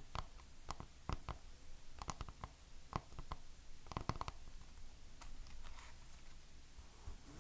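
Fingernails tapping on hard objects in quick, irregular little clusters of light clicks, growing sparser and fainter after about four seconds.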